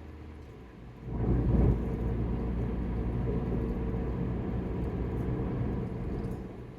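Low rumble of a car in motion, heard from inside the cabin. About a second in it swells sharply into a loud rumble, holds steady, then eases off near the end.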